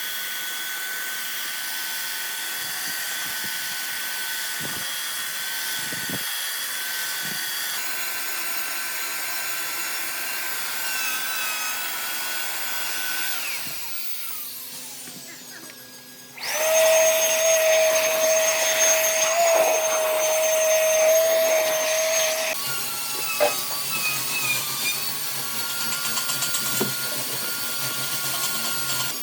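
Handheld electric power tools working wood. One tool whines steadily, then winds down with a falling pitch; a few seconds later a louder, lower-pitched tool starts abruptly, runs for about six seconds and stops, and another tool keeps running.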